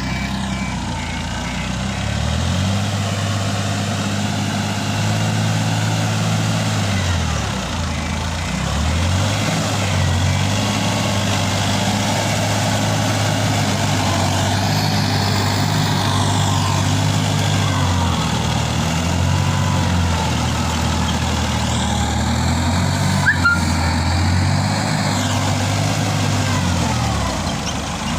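Tractor diesel engine running under load, its engine speed dropping and rising again several times. A short sharp sound stands out about 23 seconds in.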